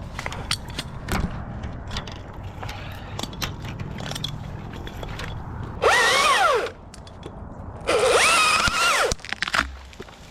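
Chainsaw revved in two short bursts, each rising and falling in pitch, about six and eight seconds in, over a low idle and scattered knocks and clicks.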